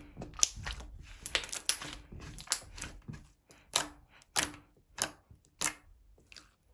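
Slime being played with by hand, making a run of sharp clicks and pops, with a steady strong click about every 0.6 s in the second half.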